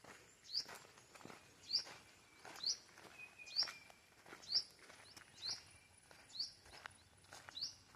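A bird repeating one short, high chirp about once a second, each note hooking upward, over soft footsteps on the forest floor.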